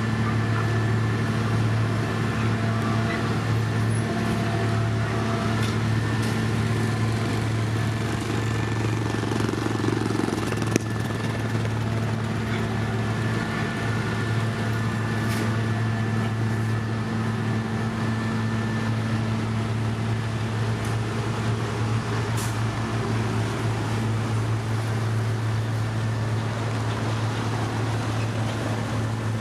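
Heavy road-construction machinery engine running steadily at a constant speed, a deep even hum with no revving. One sharp click sounds about eleven seconds in.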